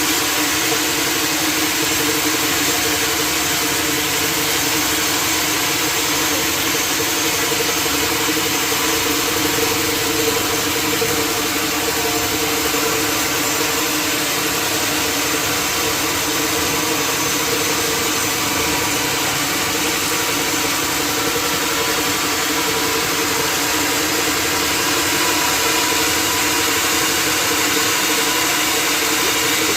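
Sawmill running steadily: a constant mechanical drone with an even hiss over it that holds without a break.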